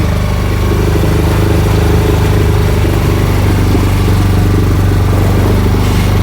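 Motorboat engine running steadily at cruising speed, a constant low hum.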